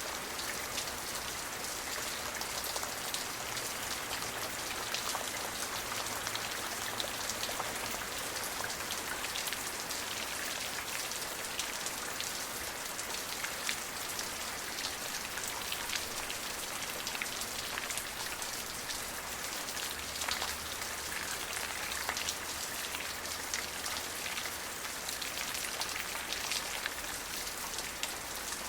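Steady rain falling, an even hiss with many small drop ticks on a surface, without thunder.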